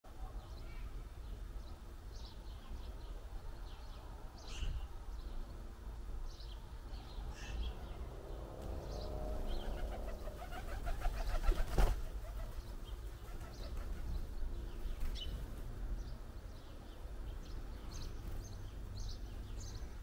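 Small garden birds chirping in short, scattered calls, with a flurry of wingbeats as birds take off from the feeder, building from about eight seconds in to the loudest moment near twelve seconds. A low, steady background rumble runs underneath.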